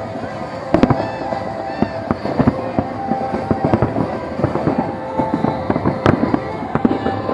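Fireworks going off in a dense, irregular barrage of bangs and crackles, with one sharper bang about six seconds in. Steady tones of music run underneath.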